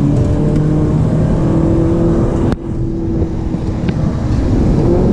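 Ferrari 458 Italia's 4.5-litre V8 running at a steady, fairly even engine speed, heard from inside the cabin. A sharp click about halfway through briefly drops the level. The engine note then holds steady and rises slightly near the end.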